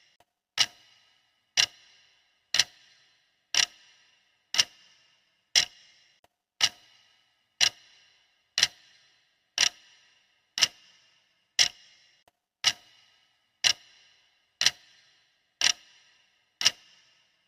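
Clock ticking steadily, one sharp tick per second, each with a brief ringing tail.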